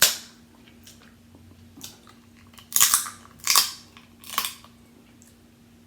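Crunching and cracking of seafood being eaten: four sharp snaps, one at the start and three more in the middle about a second apart.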